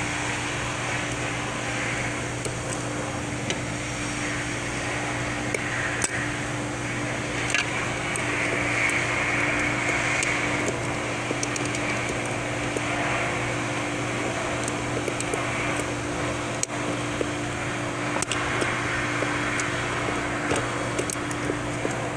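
Steady hum and rush of a running fan, with a few faint clicks and taps of tools working a snap ring out of a transmission case.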